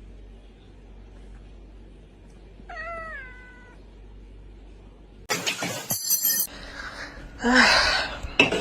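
A cat meows once about three seconds in, a short call that rises and then holds. From about five seconds in, louder, noisier sounds take over, with another short cat cry near the end.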